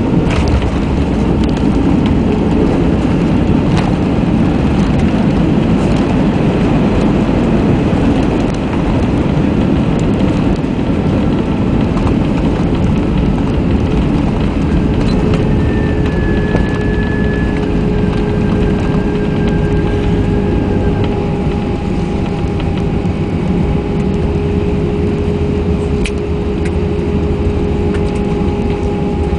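Airbus A320 cabin noise during landing: a steady, loud rumble of engines, airflow and wheels, with a few light knocks and a faint steady hum coming in about halfway.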